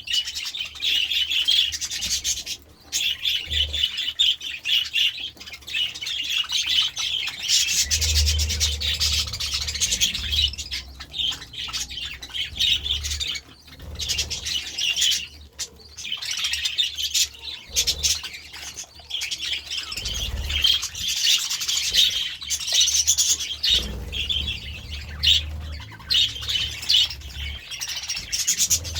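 A flock of budgerigars chattering and chirping continuously, busy and overlapping, with a low rumble coming and going underneath.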